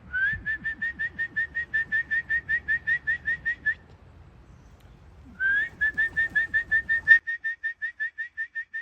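A man whistling a fast string of short, rising chirps, about five a second, in two runs with a pause of about a second and a half between them, calling racing pigeons down to the loft.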